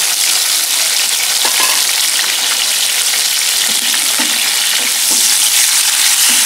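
Tomato wedges sizzling steadily in hot oil in a nonstick frying pan. In the second half they are stirred with a wooden spatula, adding small scattered knocks under the hiss.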